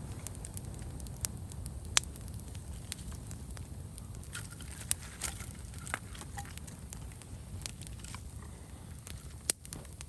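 Wood campfire crackling, with irregular sharp pops over a steady low rush.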